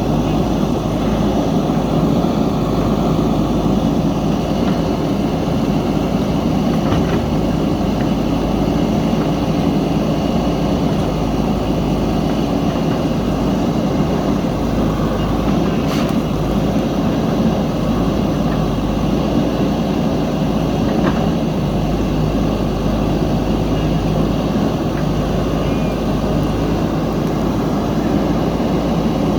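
JCB backhoe loader's diesel engine running steadily while the machine works, with one sharp click about halfway through.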